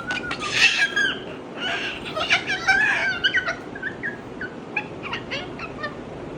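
Pet parrot chattering and calling in rapid, broken squawks and warbles for about three and a half seconds, then a few short scattered calls.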